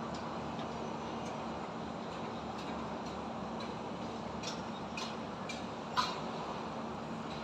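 Steady din of distant highway traffic and building-construction work with a low hum. Several sharp metallic clinks come from the site, the loudest about six seconds in.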